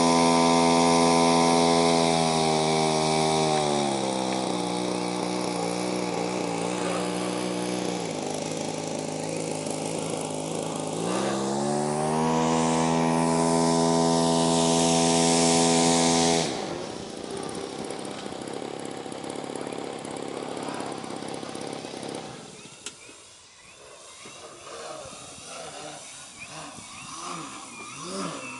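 Gasoline engine of a 67-inch Sbach 300 RC aerobatic plane running at high throttle, throttled down to a low idle a few seconds in, then opened back up about 11 seconds in. The engine sound cuts off abruptly about 16 seconds in, leaving quieter background noise.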